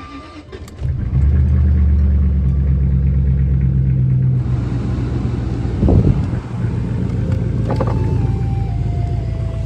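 Jaguar XJR's supercharged V8 started up: it catches about a second in and runs at a steady idle, a little louder for the first few seconds before settling. A brief thud about six seconds in.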